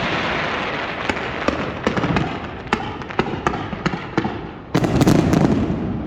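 Fireworks display: a continuous crackle of many sharp pops, with a cluster of louder, deeper bursts near the end.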